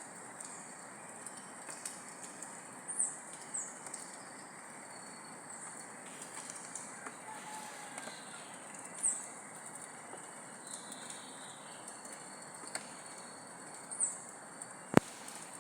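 Rainforest ambience: a steady high-pitched insect drone over a soft hiss, with a few short high bird chirps and a faint whistled call. A single sharp click comes near the end.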